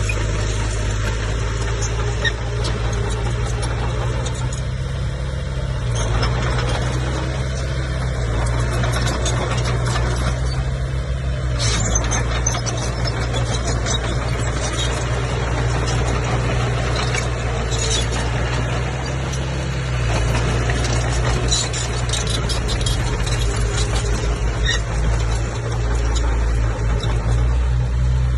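Komatsu bulldozer's diesel engine running steadily under work, with scattered short metallic squeaks and clanks from the tracks.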